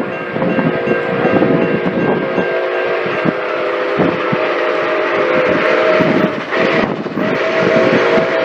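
Steam locomotive chime whistle blowing a long held chord of several notes, cut briefly a little past six seconds and then sounding again. Underneath it are the knocks and clatter of the running train.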